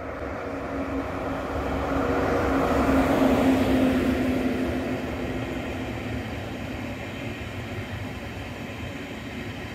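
ICE high-speed train passing, its noise swelling to a peak about three to four seconds in as the cars draw level, then continuing steadily as the carriages roll by. A humming tone runs through it and dips slightly in pitch around the loudest point.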